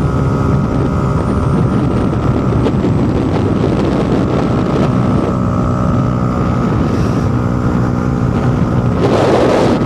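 Motorcycle engine running steadily at road speed, with wind rushing over a helmet-mounted microphone. The engine note shifts slightly about halfway, and a louder rush of wind noise comes near the end.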